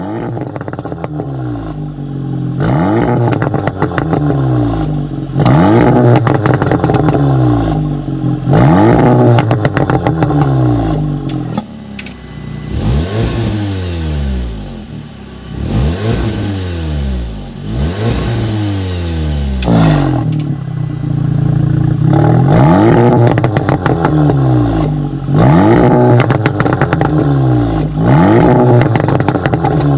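Seat Leon Cupra 300's 2.0 TSI turbo four-cylinder through a 3.5-inch stainless valved sport exhaust, revved up and let fall again over and over, about every two to three seconds, with a short pause about two-thirds of the way through.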